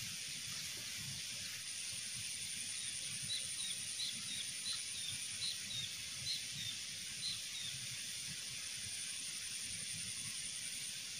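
Outdoor ambience by a small trickling ditch: a steady hiss with a thin, steady high-pitched whine over it. Between about 3 and 8 seconds in, a bird gives about six short double chirps, roughly one a second.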